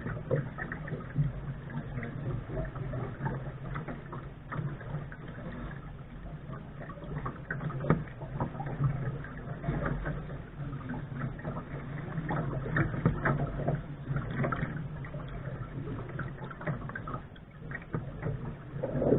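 Water splashing and lapping against a Lark sailing dinghy's hull as it sails, with scattered small knocks and clicks.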